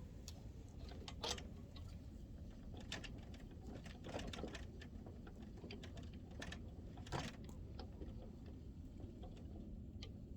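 Faint scattered clicks and taps, like things being handled, over low steady background noise.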